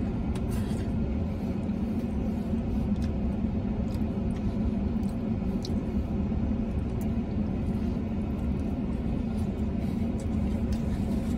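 A man chewing a mouthful of burrito, with scattered faint wet mouth clicks, over a steady low rumble inside a car's cabin.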